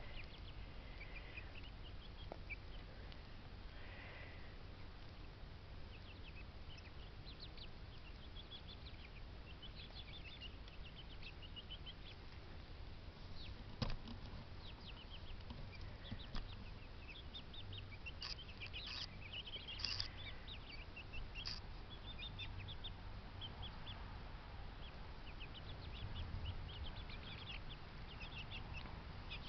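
Birds in a backyard bird yard chirping: many short, high calls scattered throughout, over a low steady rumble, with one sharp click about 14 seconds in.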